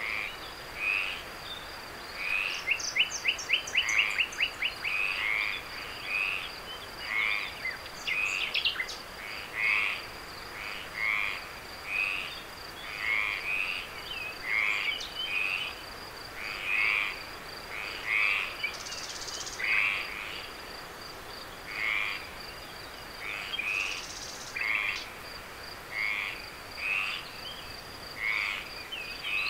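Frogs calling over and over, short croaks about once a second, with a quick run of rapid pulsed calls a few seconds in. A steady high insect trill runs underneath.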